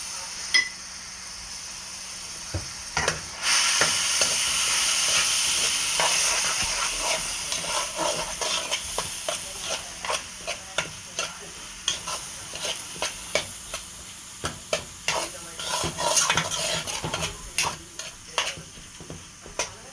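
Rice frying in hot oil with garlic and onion, sizzling, and being stirred, the spoon clicking and scraping against the pot again and again. The sizzle swells suddenly about three and a half seconds in.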